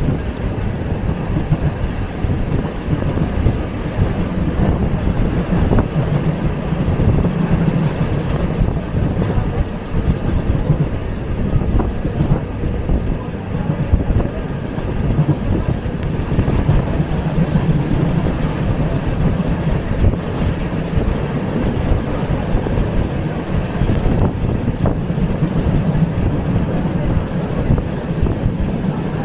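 Suburban electric commuter train running between stations, heard from inside the carriage: a steady low rumble of the wheels and car body.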